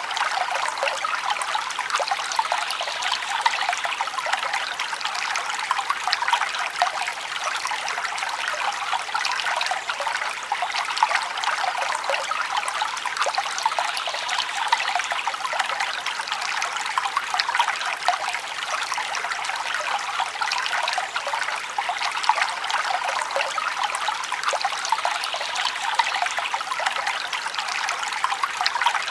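Forest stream, water trickling and babbling over rocks in a steady, even rush with fine splashing detail.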